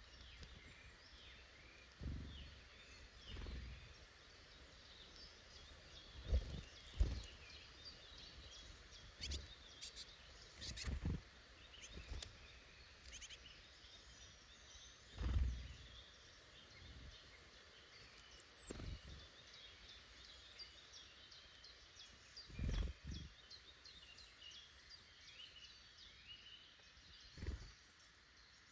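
Faint chirps and calls of small woodland birds going on throughout, with about a dozen brief low thumps scattered in among them.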